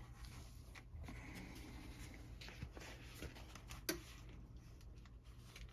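Faint rustling of paper being handled as a damp treatment sheet is slid inside a comic book's cover, with a few light clicks and one sharper tap a little before the end.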